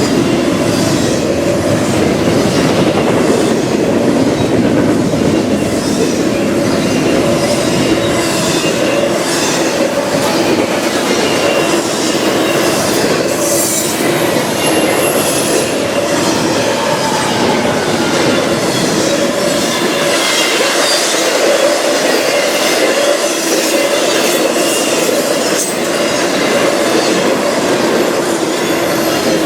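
A train passing close by on the track, its wheels clacking steadily over the rail joints with some squeal from the wheels.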